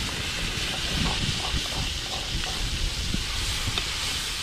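Chopped chilli and spice paste sizzling in hot oil in a wok, a steady frying hiss with a few light clicks.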